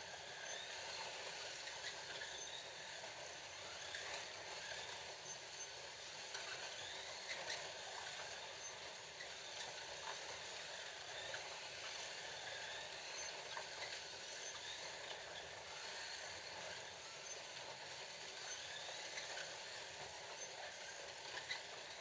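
Scalextric slot cars running laps on a plastic track: a steady hiss and rattle of the cars on the track, with small electric motors whining up and down as they speed up and slow for corners.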